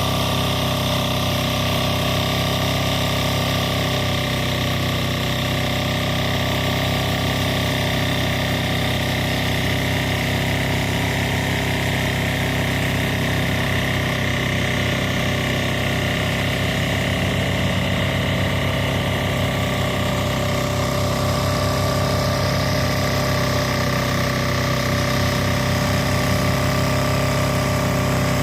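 Kubota rice combine harvester's diesel engine and machinery running steadily, a constant hum with several steady tones.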